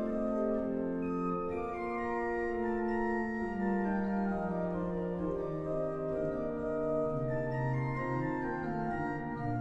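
Pipe organ playing sustained chords that change every second or so over a slowly stepping bass line.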